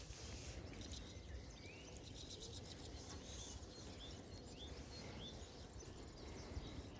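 A bird calling over and over with short, rising chirps, about one every second, over a faint low rumble of outdoor background noise.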